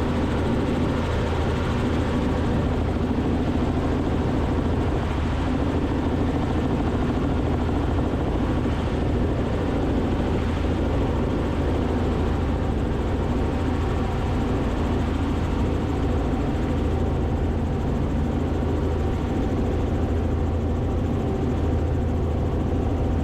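Robinson R44 helicopter's engine and rotor noise in flight: a steady, unbroken drone with a low even hum, heard through the cockpit intercom feed.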